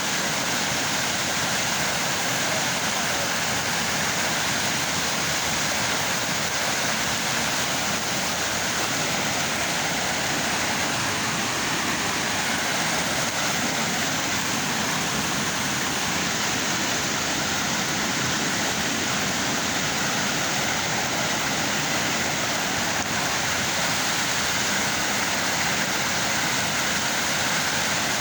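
Steady rushing of river water over rocks, an even hiss that does not change.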